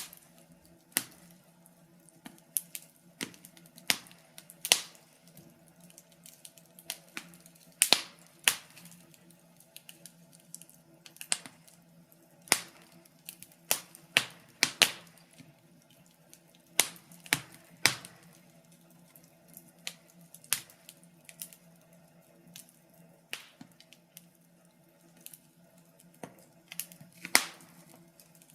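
Wood fire crackling in a fireplace: irregular sharp pops and snaps of varying loudness, bunched in places, over a faint steady low hum.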